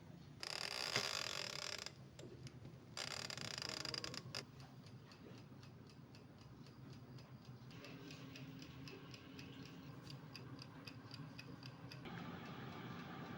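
Two short hissing sounds, each about a second and a half long, followed by steady mechanical ticking at about three ticks a second.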